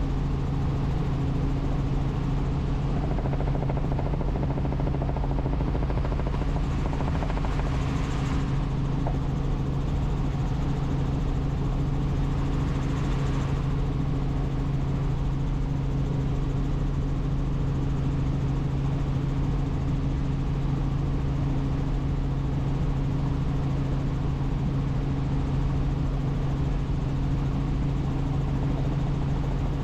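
Helicopter in flight: a steady, unbroken hum of rotor and turbine engine.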